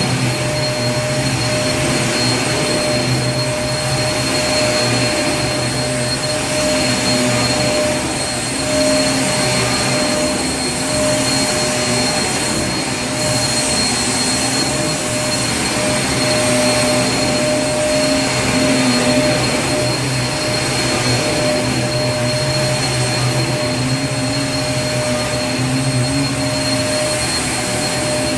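Vacuum cleaner motor running steadily, a loud even rushing noise with a constant high whine.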